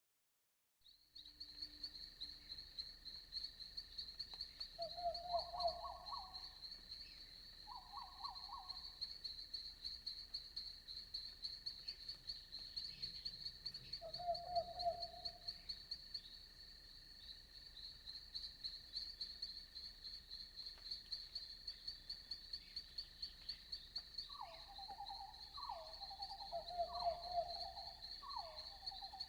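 Night insect chorus with a continuous fast, high trill, joined by frogs giving short pulsed croaks now and then, several in a row near the end. The sound starts after about a second of silence.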